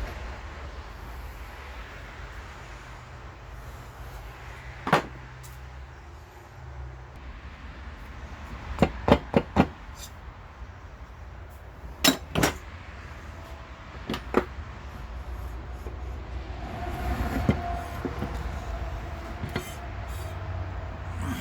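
Sharp metal knocks and clinks from parts of a lawn tractor transmission being dismantled by hand: scattered single knocks, a quick run of four about nine seconds in, and a pair near twelve seconds. A steady low hum sits underneath.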